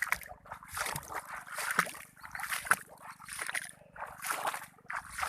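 Water sloshing and splashing in repeated surges, about one a second, as something moves steadily through water.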